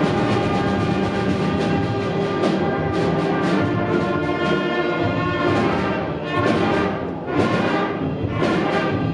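Middle school concert band playing, with sustained brass chords over repeated drum and timpani strokes.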